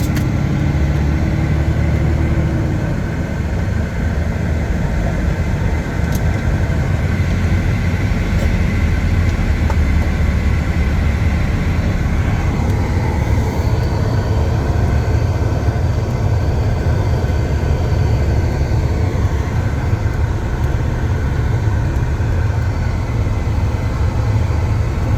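Semi truck's diesel engine running at low speed, a steady low drone heard from inside the cab.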